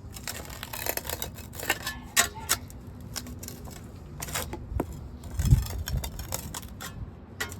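Concrete pavers being shifted and set by hand: repeated stone clicks and scrapes, with a dull thud about five and a half seconds in.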